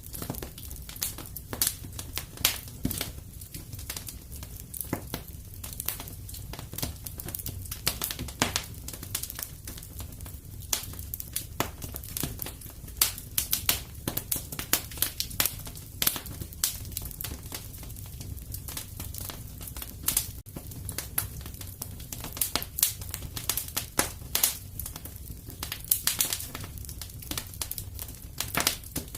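Wood fire burning in a fireplace: irregular crackles and pops, some sharp, over a soft low rumble of the flames.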